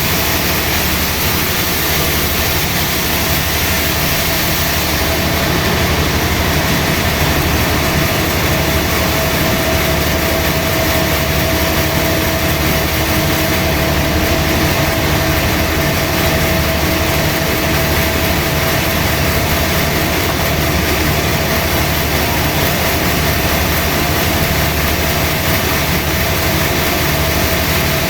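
Sawmill machinery running steadily while sawing teak wood roots. A steady whine grows stronger about eight seconds in.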